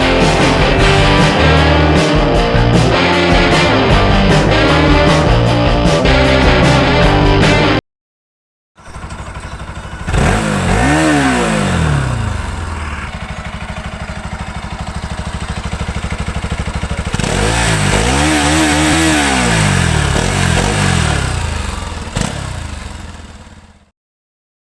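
Rock music with guitar plays and then cuts off. After that, the Bajaj Pulsar NS200's single-cylinder engine idles through a modified exhaust and is revved up and back down twice, with a steadier idle between the two revs.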